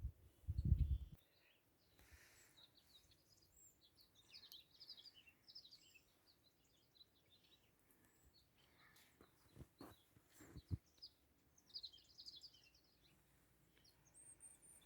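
Small birds chirping faintly in short high bursts, with a low thump in the first second and a couple of sharp clicks about ten seconds in.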